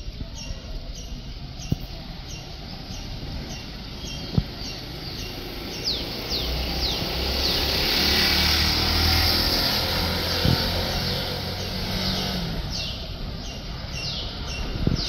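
A bird calling over and over, a short falling chirp about twice a second, while a passing vehicle's rumble swells to a peak about halfway through and then fades.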